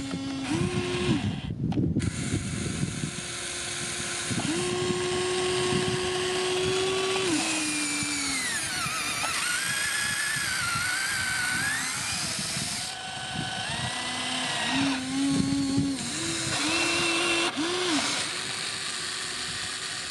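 A farm machine's motor running under changing load: a low steady tone that steps up and down in pitch, with a high whine that dips and climbs back about halfway through.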